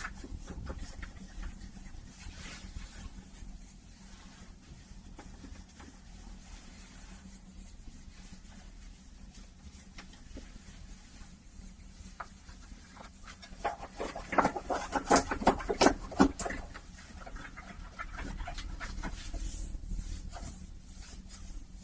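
Close-miked rustling and rubbing of a hat's fabric and brim, soft and steady, with a louder burst of crackly rustling and clicks about two-thirds of the way through.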